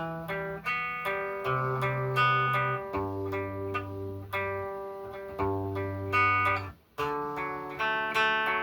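Guitar playing a run of ringing chords, the notes sustaining over changing bass notes, with a brief stop about seven seconds in before it picks up again.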